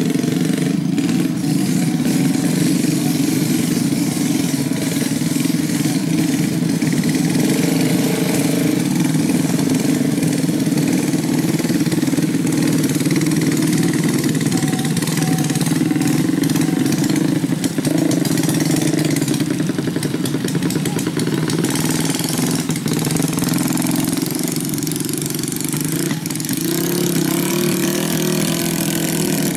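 Trail motorcycle engines running steadily at low speed, the bikes loaded with sacks of rice and working through deep mud.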